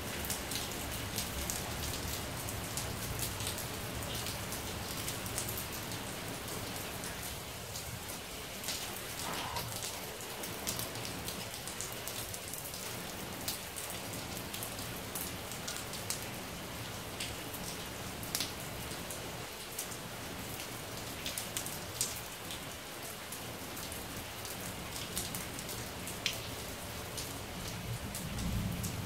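Rain falling steadily on a tiled rooftop terrace, with many single drops ticking close by. A low rumble of thunder starts building near the end.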